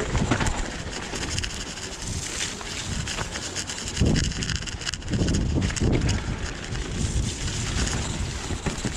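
Strong gusts of wind buffeting the microphone in low rumbles that swell several times, over the clicks and rattles of a mountain bike riding a muddy trail.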